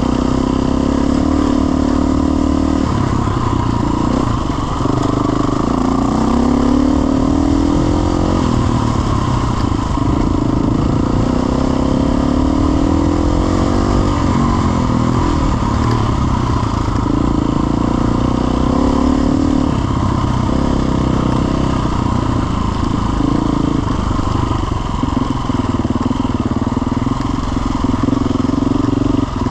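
Off-road trail motorcycle engine running continuously under load, its pitch rising and falling as the throttle is opened and eased off.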